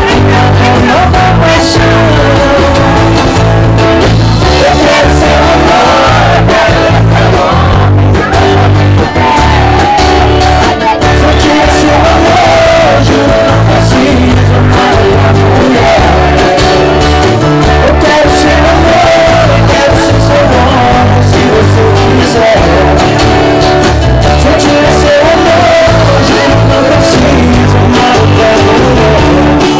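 Group of people singing a song over loud music with a steady, repeating bass beat and guitar.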